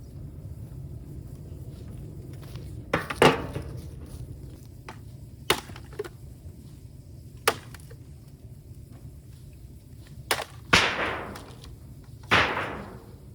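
Bamboo giving sharp, gunshot-like cracks and pops, about seven of them spread unevenly, the two loudest near the end trailing off in a fading crackle, over a steady low rumble.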